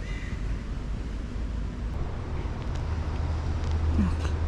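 Steady low rumble of a motor vehicle, its low hum growing a little stronger about halfway through.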